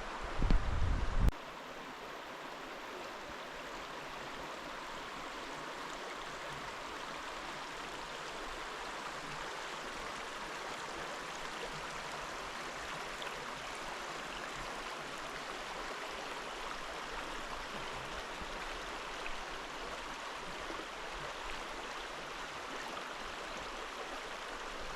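Steady rushing of a flowing river, an even hiss with no change in it. In the first second there is a brief, loud low rumble on the microphone.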